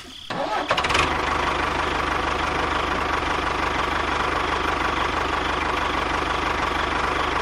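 A small engine running steadily at an even idle, with a fast, regular pulse. It comes in within the first second after a short lull.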